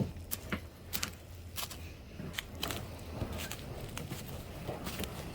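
Irregular footsteps with scattered knocks and scrapes over a low rumble, as a kayak is moved back to the water.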